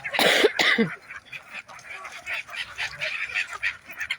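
A flock of geese and ducks calling: a loud honk with a falling pitch in the first second, then a dense chatter of short honks and quacks.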